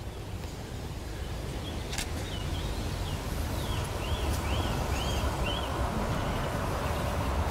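A songbird sings a quick run of about six short, high notes, each rising and falling, over a steady low outdoor rumble that grows slightly louder.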